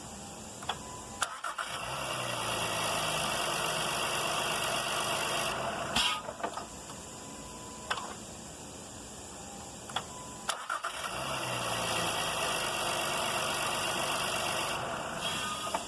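2016 Honda Pilot starter motor run twice, each time starting with sharp clicks as it is energised, spinning steadily for about four seconds, then stopping with a click. It spins smoothly with no grinding or snagging, its drive gear cleaned of the sand that caused the grinding.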